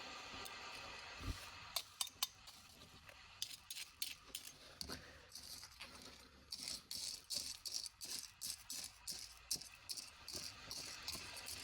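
Small hard objects rattling and clicking as they are handled and sorted through. A few separate clicks come early, then a busy run of quick rattles and scrapes in the second half.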